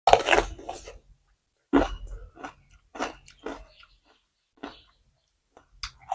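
Close-miked eating: a person biting and chewing crunchy food in a string of short, irregular bursts, the first the loudest, with dead silence between them.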